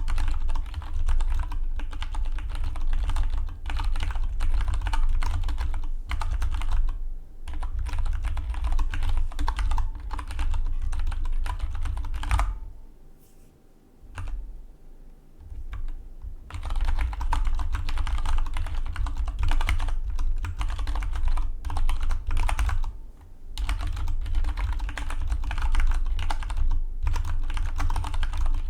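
Fast touch-typing on a Dygma Defy split mechanical keyboard: a dense run of key clicks and keystrokes bottoming out, with a pause of about four seconds near the middle before the typing resumes.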